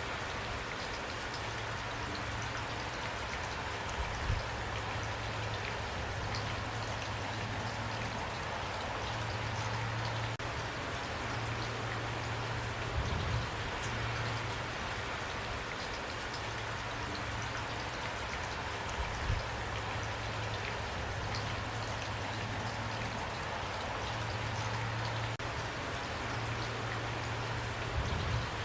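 Steady rain falling, with individual drops heard now and then, and a low hum that comes and goes underneath.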